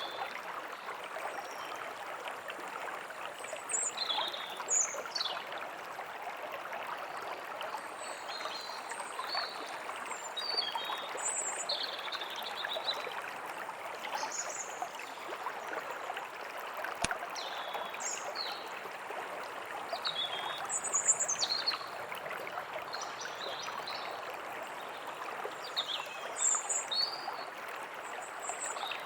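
A stream running steadily, with small birds chirping and calling on and off over it.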